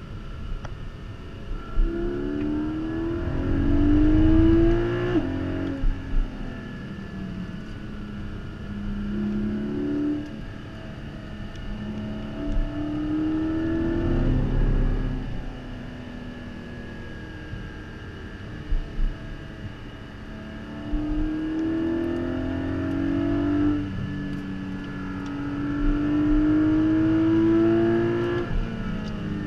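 The 2022 Porsche Cayman GT4's naturally aspirated flat-six, heard from inside the cabin while driven hard on track. The engine note climbs under acceleration several times and falls away in between, loudest a few seconds in and again near the end.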